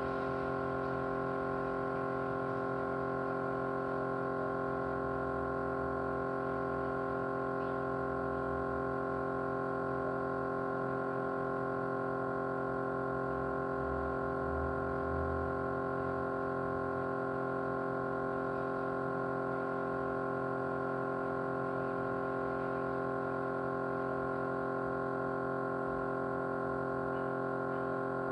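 Small motor running at a constant speed with a steady vibrating hum made of many even tones.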